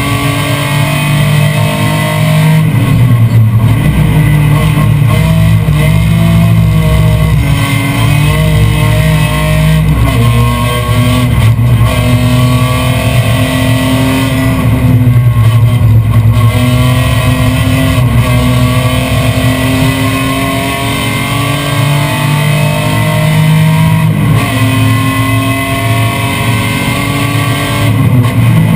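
BMW M3 race car engine pulling hard at high revs, its pitch climbing through each gear and dropping at the gear changes several times, heard from inside the stripped, roll-caged cabin.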